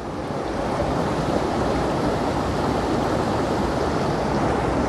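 Steady rushing water of a waterfall and creek, an even noise without breaks that swells slightly in the first second and then holds.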